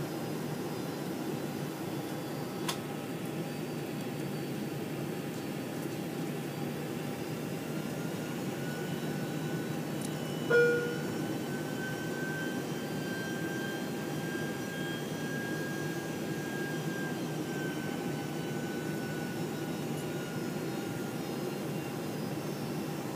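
Steady cabin noise of a Boeing 747-400 airliner in flight: the even rush of its jet engines and airflow, with a faint whine that rises slightly and eases back down over several seconds. About ten seconds in there is one short, loud knock with a brief tone.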